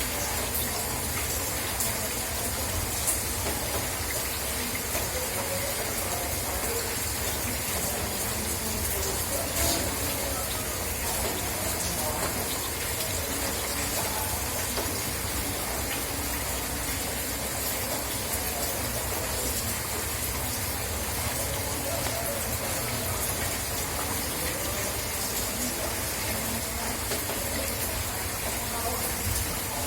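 Steady rain falling, with water gushing and running.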